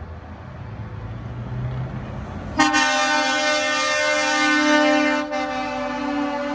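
A truck engine rumbling and building, then about two and a half seconds in a loud truck air horn blasts and is held to the end, with a brief dip near the end.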